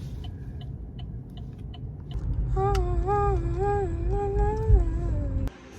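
A person humming a short, wavering tune over a low steady rumble; the humming starts about halfway in, slides down in pitch at its end, and is cut off abruptly near the end.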